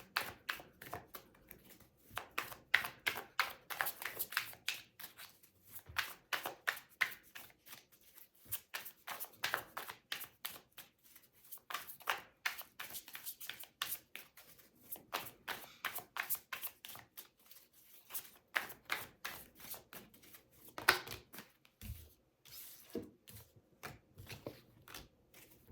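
Tarot cards being shuffled by hand: dense runs of quick card flicks and clicks, broken by a few short pauses.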